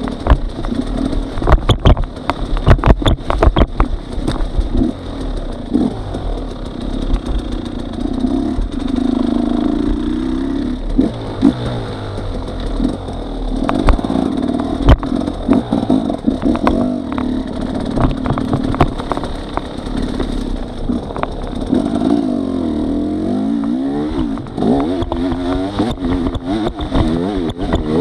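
Trail motorcycle engine running and revving up and down as it rides, with frequent knocks and clatter over it.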